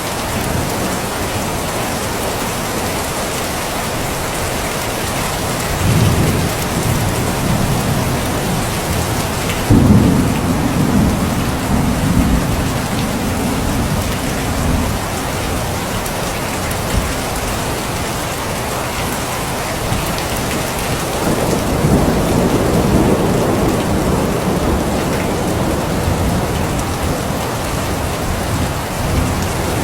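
Steady heavy rain, with low rumbles of thunder about six seconds in, again from about ten to fifteen seconds in, and from about twenty-one to twenty-five seconds in.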